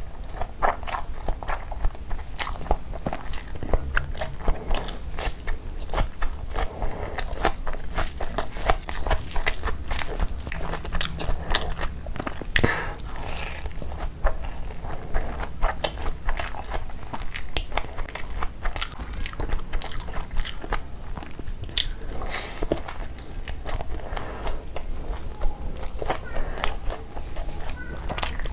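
Close-miked eating sounds: a mouthful of spicy fried rice eaten by hand, chewed with lip-smacking and many quick wet clicks.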